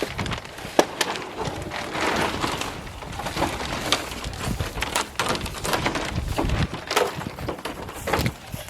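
Irregular knocks, clicks and rustling from hands-on building work.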